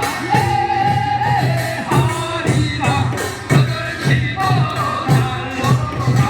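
Korean folk song sung live, a voice holding long melodic notes over a steady drum beat.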